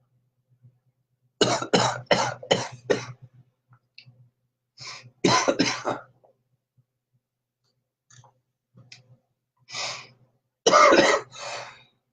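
A man coughing hard in fits after taking a hit of cannabis: a quick run of about five coughs, a couple more a few seconds later, and a last loud fit near the end.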